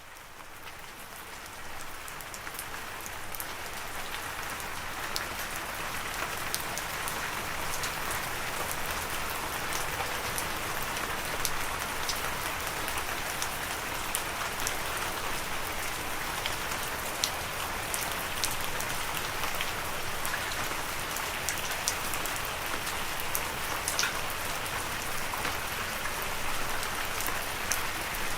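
Steady rain falling on a surface, an even hiss with individual drops ticking sharply through it. It fades in over the first couple of seconds, then holds steady.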